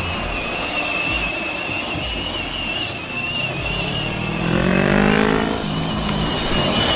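Vehicle engine running with a steady high whine; about four to five seconds in, it revs up in a rising glide.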